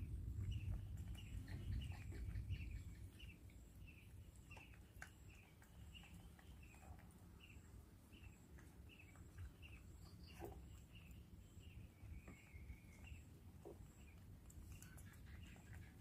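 Faint, evenly repeated short high chirps, about two a second, from a small bird calling, which stop a few seconds before the end. A low rumble fades out over the first few seconds, with a few soft clicks.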